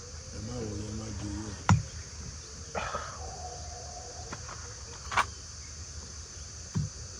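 Steady high-pitched chirring of crickets or other insects, broken by two sharp single knocks, one about two seconds in and one about five seconds in, with faint voices in the background.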